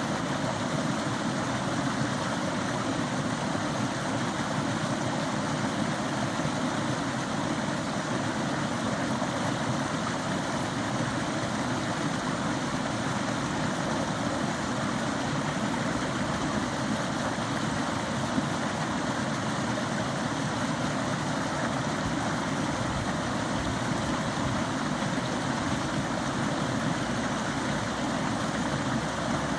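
Forest stream running steadily, a constant rushing of water.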